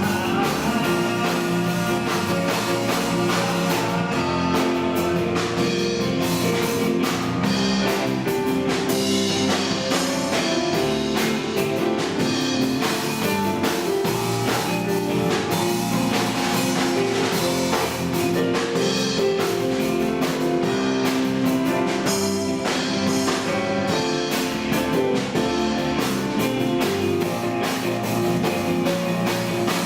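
Rock band playing an instrumental passage, with guitar over a steady drum-kit beat.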